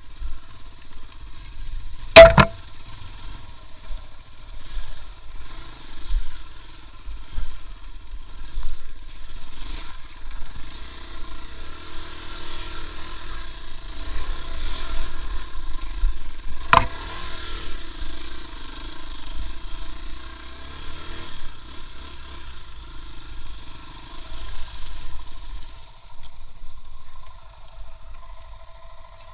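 A vehicle engine running unevenly as it drives over rough, muddy ground, with rattling. Two sharp loud knocks, about two seconds in and again about seventeen seconds in.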